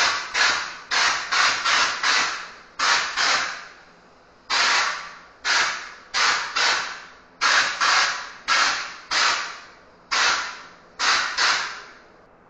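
Handheld drywall texture spray nozzle fed from a small bag of texture, spraying texture onto a patched wall in about sixteen short hissing bursts, each starting sharply and fading away.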